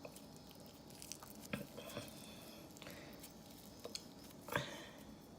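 Soft, sticky squelches and faint clicks of peanut butter slime being spread on a slice of bread, with one sharper smack about four and a half seconds in.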